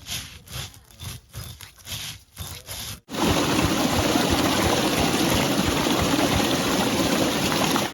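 Short, repeated scraping strokes of a stone grinding roller on an ammi kal grinding slab, grinding roasted pearl millet. About three seconds in the sound breaks off abruptly and a loud, steady rush of running water takes over.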